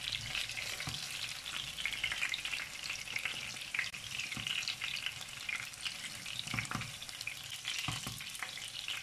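Köfte sizzling and crackling in shallow oil in a frying pan. A few soft knocks and scrapes from a silicone spatula as the cooked meatballs are lifted out.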